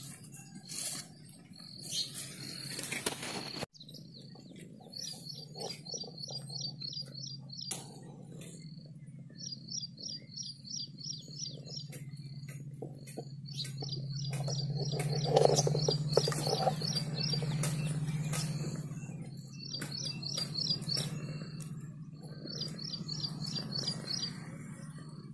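Small birds chirping in repeated short, rapid trills, each burst a second or two long, over a low steady drone that swells and fades in the middle. Light clicks and rustles come and go throughout.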